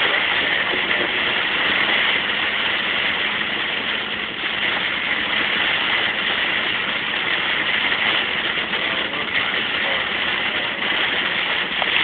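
Heavy rain on a moving car and tyres on a water-covered road, heard from inside the cabin as a steady, even hiss with no break.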